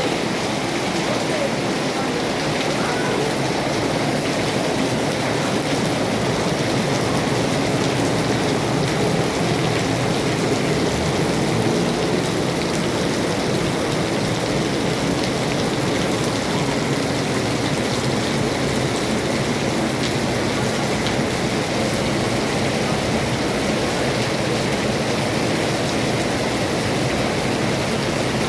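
Rain falling steadily: a dense, even hiss of water that does not let up.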